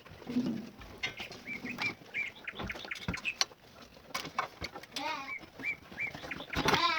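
Birds chirping in short repeated notes, with a longer wavering call about five seconds in and again near the end, over scattered clicks and knocks.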